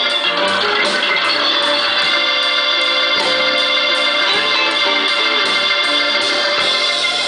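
Live band playing, with a sustained organ-like keyboard carrying the lead over a moving bass line.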